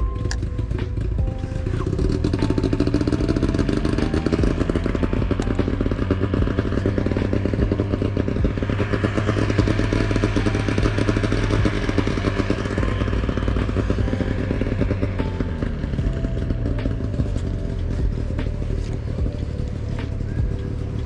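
A motor engine running, swelling louder and then fading away, over background music.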